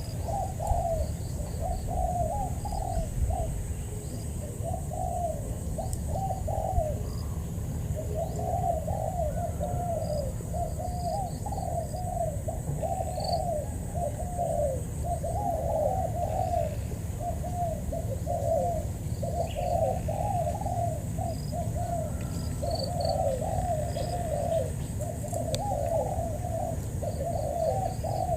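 Spotted doves cooing back and forth, phrase after phrase with only short pauses: a decoy dove and a wild male answering each other. Faint small-bird chirps sound higher up.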